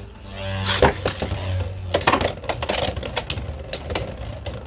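Two Beyblade X spinning tops, Hells Scythe and Knight Shield, launched into the stadium and clashing. There is one sharp knock under a second in, then a rapid, irregular run of hard plastic-and-metal clicks and knocks as they collide, over background music.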